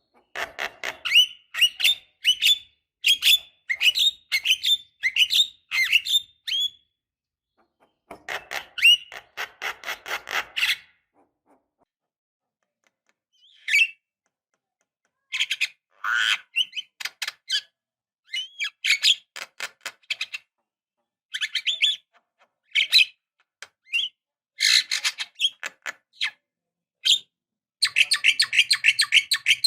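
Javan myna (jalak kebo) giving harsh, chattering calls in bursts of rapid notes separated by short pauses, ending in a dense burst of chatter.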